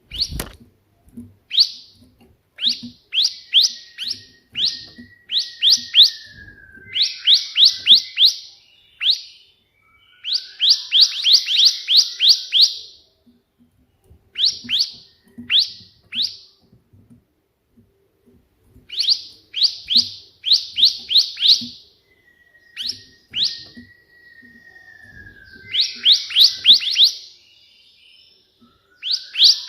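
Bar-winged prinia (ciblek) singing in volleys of sharp, quickly repeated chirps, the rapid 'shooting' style copied from the white prinia. Runs of several notes come in bursts with short pauses between them, some with a thin gliding whistle beneath; there is a sharp click at the very start.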